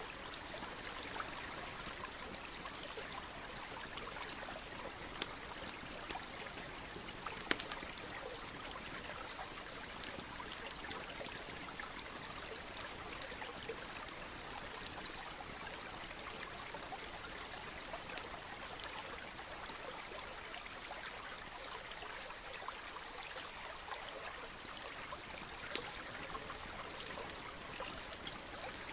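A stream flowing steadily, with the scattered sharp pops and crackles of a wood campfire over it.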